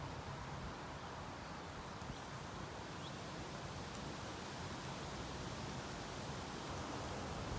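Steady outdoor background hiss, even and unbroken, with a few faint high ticks and no clear birdsong.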